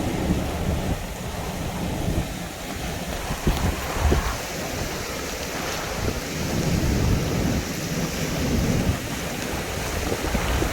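Hurricane wind gusting and buffeting the microphone with a low rumble, over heavy rain, rising and falling in gusts.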